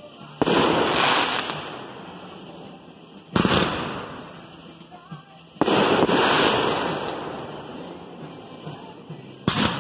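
Consumer fireworks shots going off: four sharp bangs, two to four seconds apart, each followed by a rush of noise that fades away over a second or two.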